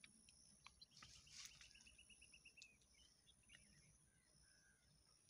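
Near silence with faint birdsong: one rapid trill of evenly spaced high notes, about a second and a half long, starting about a second in.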